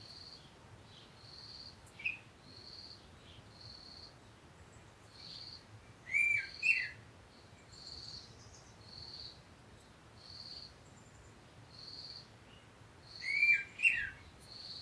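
Birds calling: one gives a short high note over and over, about once every second and a half, and a louder pair of quick falling chirps comes twice, near the middle and near the end.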